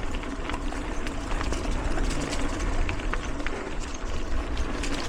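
Mountain bike riding along dirt singletrack: tyre noise on the trail with frequent short rattling clicks from the bike, over a steady low rumble.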